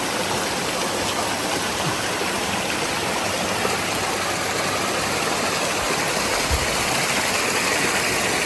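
Small waterfall on a mountain stream, water rushing steadily.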